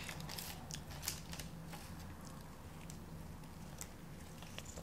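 Faint chewing: scattered soft clicks and smacks of food being eaten, over a low steady hum.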